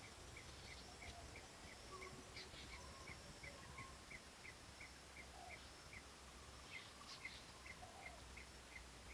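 Faint outdoor ambience: a short high chirp repeating steadily about three times a second, with a few softer scattered calls from wildlife.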